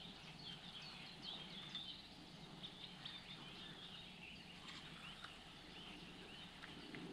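Faint birdsong: many short, chirping calls over a quiet low hiss.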